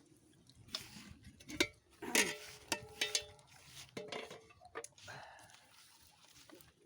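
Metal pot and utensils clanking and clinking while boiled potatoes are tipped out of the pot: a string of knocks, some leaving a short metallic ring.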